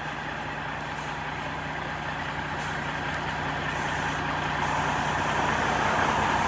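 Peterbilt 379 tractor truck's diesel engine running steadily, growing gradually louder.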